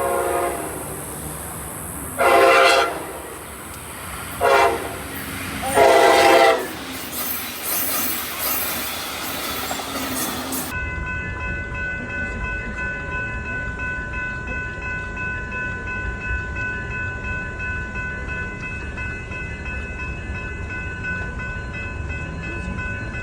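Train horn sounding the grade-crossing pattern of two long blasts, a short one and a long one. Then, after an abrupt change, a train runs by with a steady low rumble and several steady high-pitched tones singing over it.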